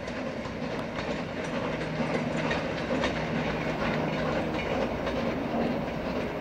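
Goods train of wagons and a brake van rolling along the track behind a steam locomotive: a steady rumble with the wheels clicking over rail joints, slowly getting louder.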